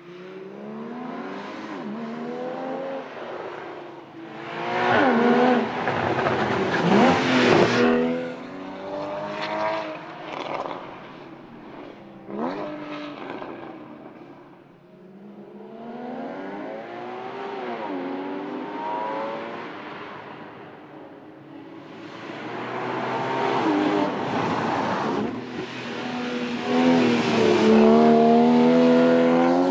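2015 Porsche Boxster GTS's 3.4-litre flat-six engine accelerating hard, its pitch climbing and then dropping back at each gear change, over and over. Loudest about five to eight seconds in and again near the end.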